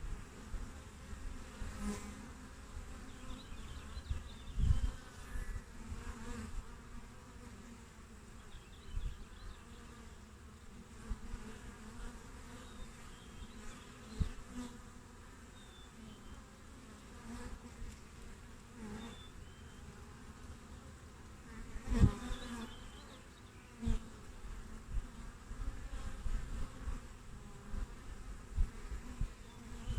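Honeybees buzzing at the hive entrance, many bees flying in and out with individual buzzes swelling and fading as they pass close. Short low thumps come now and then, the loudest about two-thirds of the way through.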